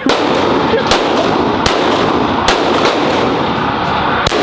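Gunshots on a shooting range: about five sharp reports at uneven intervals, roughly a second apart with a longer gap before the last, over a steady loud rushing noise.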